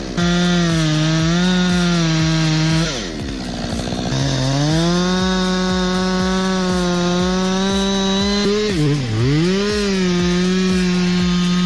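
Chainsaw running at high revs, cutting wood. Its engine pitch drops off and climbs back around three seconds in, and dips and recovers again near nine seconds.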